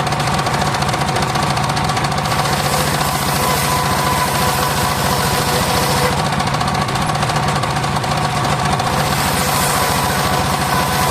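Engine-driven homemade circular saw rig running steadily, the engine's rapid even firing pulses under a few steady higher tones.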